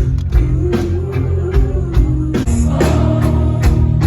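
Live rock band playing loudly: steady drum hits over sustained bass and guitar, with a sung line partly heard.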